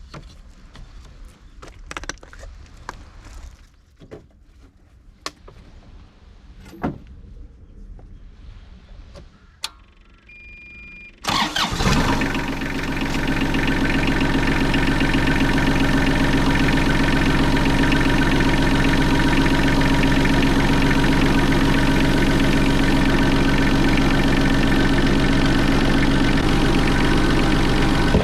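A few light clicks and knocks and a short beep, then an engine starts about eleven seconds in and settles into a steady idle.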